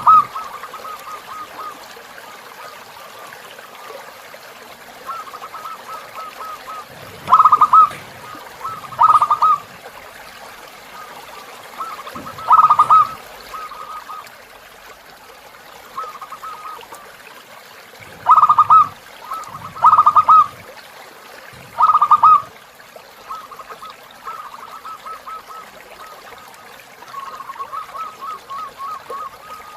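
Zebra dove (perkutut) cooing in rapid pulsed phrases: about six loud coo bouts, with softer fast trilled notes between them. Faint trickling river water runs underneath.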